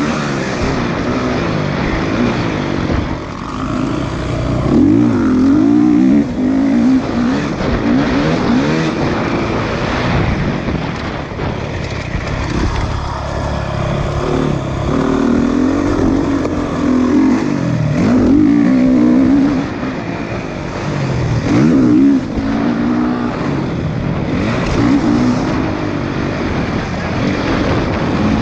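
Motocross motorcycle engines revving and accelerating, their pitch rising and falling again and again as the bikes work around the track.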